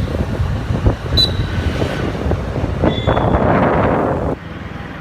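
Motorcycle engine running steadily while riding, with wind rushing over the microphone. A louder rush of noise swells about three seconds in and cuts off just over a second later.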